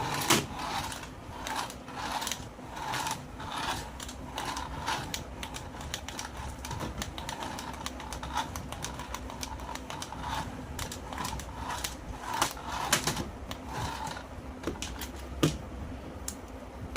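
A run of irregular light clicks and taps, several a second, with a few louder ones near the end.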